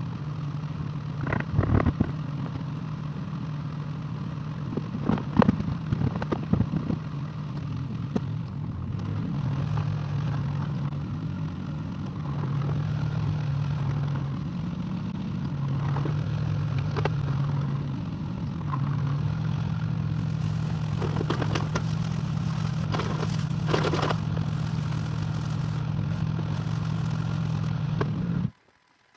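Excavator engine running steadily, with intermittent scrapes and clanks from the bucket working the ground, loudest a couple of times in the first seven seconds and again in the last third. The sound cuts off suddenly just before the end.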